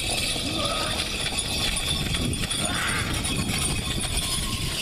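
Indistinct voices over dense, busy background noise.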